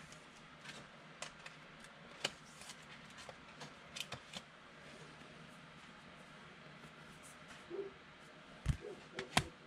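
Faint clicks and soft rustling of football trading cards being slid and flipped through by hand, with a few louder knocks near the end.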